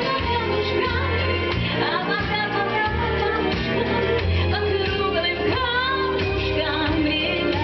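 A singer performing a song over instrumental accompaniment, with the voice holding wavering notes above a steady bass line.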